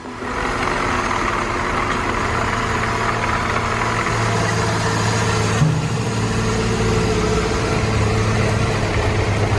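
Heavy truck tractor's diesel engine running steadily while hauling a load of about 110 tons. About halfway through there is a brief knock and the engine note shifts.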